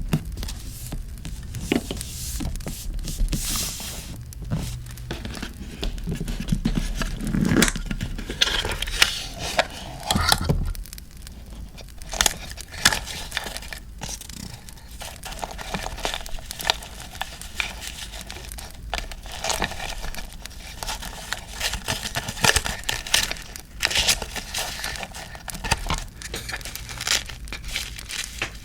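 Paper handled close up, crinkling and tearing, with many sharp taps and scrapes, over a steady crackling campfire background.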